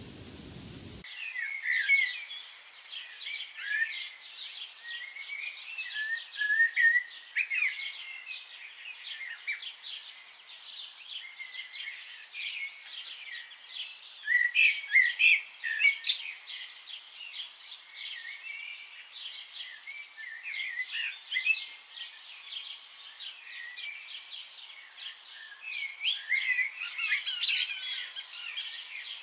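A dense chorus of many birds chirping and calling, with quick overlapping chirps and short whistled notes. It begins about a second in, replacing a steady hiss.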